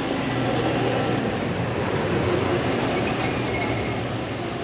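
Heavy diesel truck engine running hard under load, a steady low rumble with rattling, as one truck pushes another stuck truck uphill.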